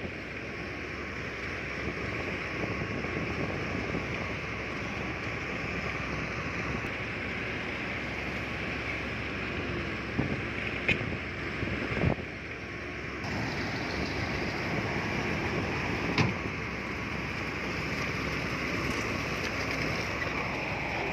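Heavy earthmoving machinery running steadily, with a few sharp knocks.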